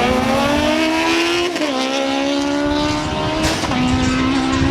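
Superbike engine at full throttle in a drag race, its pitch climbing and then dropping sharply at two upshifts, about one and a half and three and a half seconds in. A short crack comes just before the second shift.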